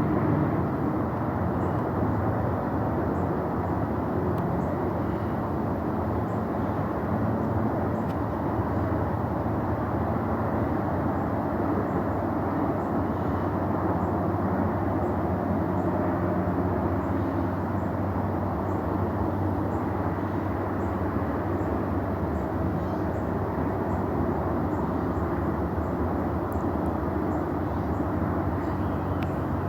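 SpaceX Falcon Heavy rocket launch heard from miles away: a steady low rumble and crackle of the engines.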